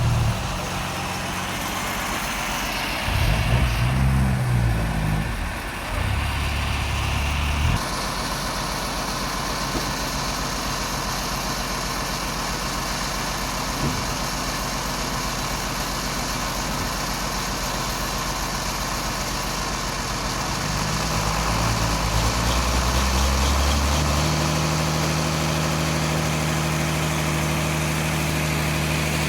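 Sawmill machinery running: an engine-like hum that shifts in pitch and level a few times, then settles into a different steady hum near the end.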